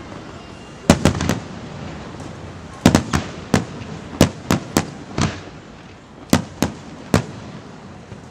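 Aerial fireworks shells bursting: a series of about fourteen sharp bangs, mostly in quick clusters of two or three, spaced irregularly over several seconds.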